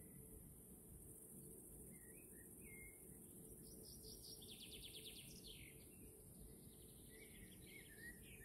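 Faint songbird calls: a few short chirps, then a fast trill of rapidly repeated notes about four seconds in, and more chirping near the end. Underneath is a steady low hum and a steady high hiss.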